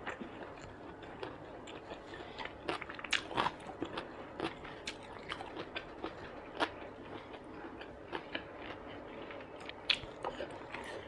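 Close-miked chewing of a mouthful of rice and food, with many short sharp mouth clicks and smacks; a fresh mouthful of rice goes in near the end.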